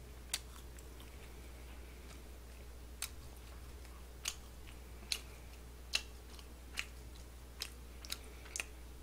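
A person chewing food with the mouth close to the microphone: faint, short mouth clicks and smacks, coming about once a second from a few seconds in, over a low steady hum.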